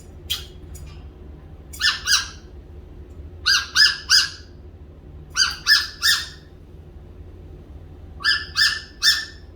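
African grey parrot giving short, pitched squawking calls in quick groups of two or three, four groups in all.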